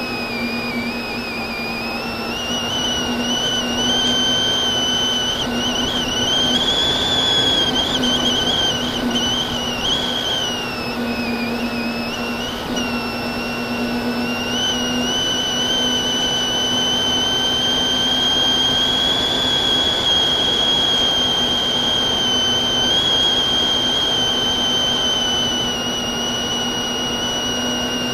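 FPV racing quadcopter's brushless motors and propellers whining, the high pitch wavering up and down with throttle changes, over a steady rushing hiss.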